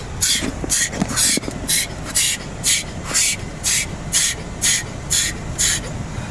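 Automatic car wash spray hissing against the car in regular pulses, about two a second, over a steady low rumble of machinery, heard from inside the car as the protectant stage begins.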